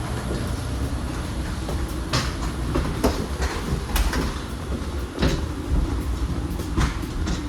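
Deplaning noise on a parked airliner: a steady low rumble with scattered knocks and clatter, about one a second, from luggage, bins and people moving.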